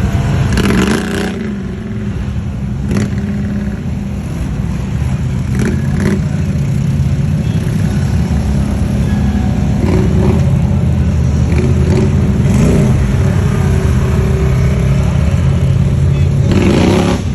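Can-Am Outlander XMR 570 ATV engine running and revving, with a few brief knocks and clatters.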